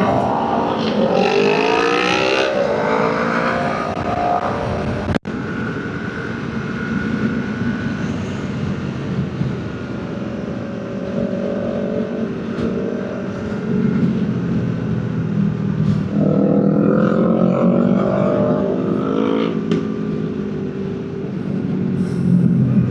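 Motor vehicle engine accelerating up through the gears twice, its pitch climbing and dropping back with each shift, over a steady road and wind rumble. There is a brief cut-out about five seconds in.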